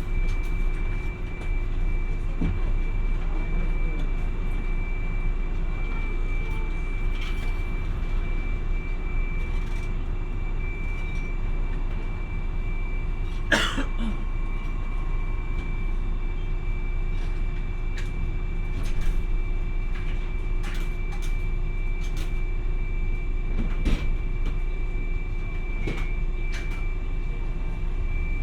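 Hiroden 700 series tram No. 701 running along the line, heard from on board. A steady low rumble carries a constant high tone, with scattered short clicks and knocks from the running gear and one sharper knock about halfway through.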